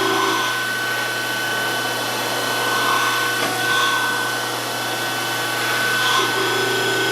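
DoAll 14-inch surface grinder running steadily, its spindle and hydraulics giving a constant high whine over a hum and hiss. A coarse buzz drops out under a second in and comes back about six seconds in.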